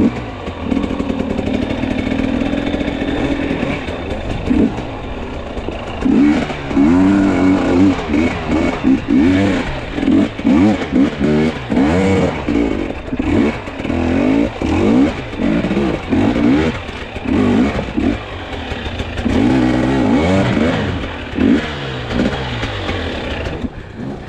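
Two-stroke enduro dirt bike engine running on a trail. It is fairly steady for the first few seconds, then revs up and down over and over, its pitch rising and falling about once a second, as the throttle is worked over rough ground.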